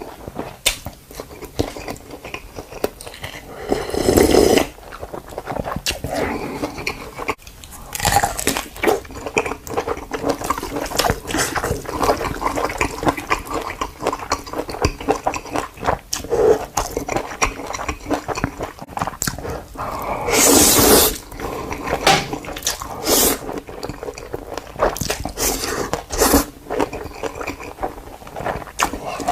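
A panda chewing and crunching its food: a dense run of crisp crunches and clicks, with a few louder, longer crunching bursts.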